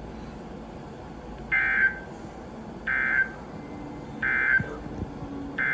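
Weather radio SAME digital alert header: short, buzzy data-tone bursts repeated about every 1.4 seconds, the last one longer. These bursts mark the start of a new broadcast alert.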